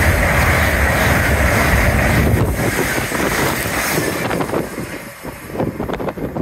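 LNER Azuma high-speed train running through the station close by: a loud rumble and rush of air with wind buffeting the microphone. The noise fades from about halfway as the last carriage passes.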